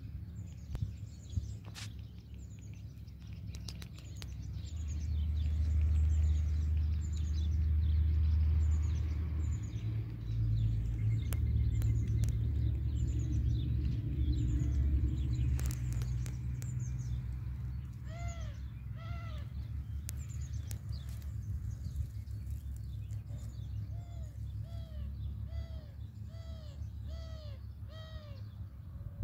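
Small songbirds singing and calling, with repeated short high chirps throughout and, in the last ten seconds or so, a run of arched call notes about two a second. Under them runs a low rumble that swells for several seconds in the middle and is the loudest sound.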